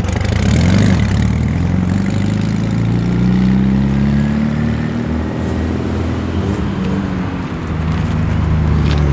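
A performance car's engine and exhaust as it drives out past the camera, the note rising as it accelerates, then easing back down.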